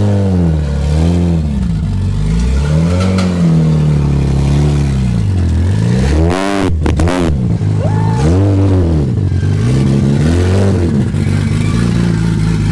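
Toyota Supra's turbocharged 2JZ-GTE straight-six being blipped over and over, each rev rising and falling back, with a short harsh burst about six and a half seconds in; near the end it settles to a steady idle.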